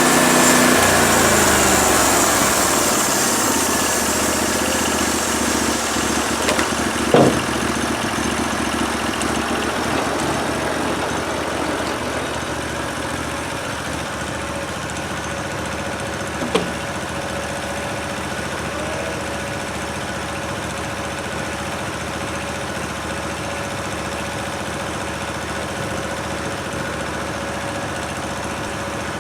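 Portable band sawmill's gas engine finishing a cut and settling back to a steady idle, the sawing noise dying away in the first couple of seconds. Two brief knocks come about a third and about halfway in.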